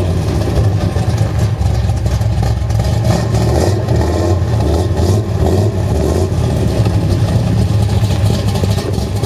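Big-block V8 of a 1963 Chevrolet Bel Air bubbletop rumbling at low revs as the car rolls slowly; a steady, choppy low rumble with no hard revving.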